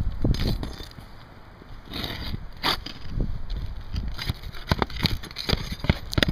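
Asphalt shingles and nails being pried and scraped loose on a roof: irregular clicks, snaps and scrapes, with a loud scrape just under three seconds in.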